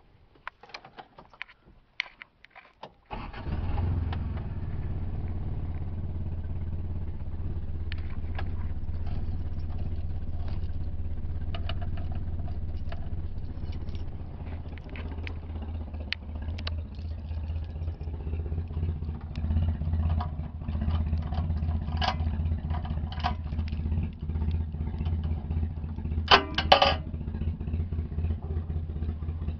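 Toyota Tercel engine started after a few clicks: it catches at once about three seconds in and then idles steadily, its exhaust running through a Harley-Davidson motorcycle silencer. A couple of sharp knocks come near the end.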